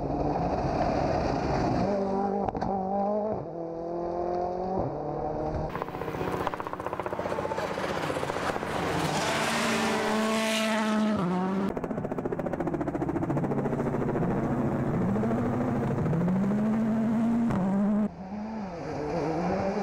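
Four-cylinder turbocharged World Rally Cars at full throttle on a gravel stage, engine pitch climbing and dropping with quick gear changes. About halfway through, one car passes close by with a sharply falling pitch. The sound changes abruptly a few times, from separate passes cut together.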